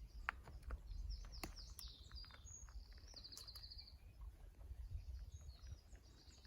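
Small birds singing, with short chirps and one fast trill a little past the middle, over a low rumble and a few faint clicks.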